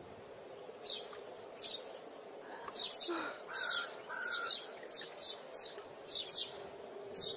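Forest birds chirping: quick, high chirps repeated about twice a second, with a couple of longer, lower calls near the middle, over a steady low hum.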